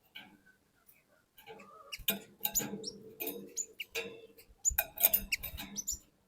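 Cinereous tit calling in quick clusters of short, high chirps and chattering notes, with louder bursts about two and five seconds in.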